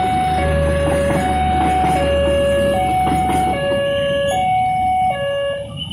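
Passenger train carriages rolling past with a steady low rumble. Over it, a two-tone electronic alarm alternates between a higher and a lower note about every 0.8 s and stops shortly before the end.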